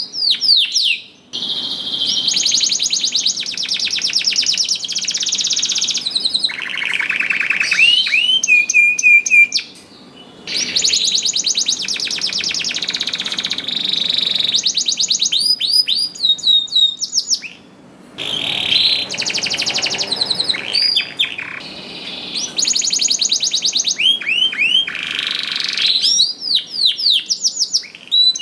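Domestic canary in full song, singing long phrases of fast trills and rolls with quick rising and falling notes, pausing briefly about a second in, near the middle and again about two-thirds of the way through.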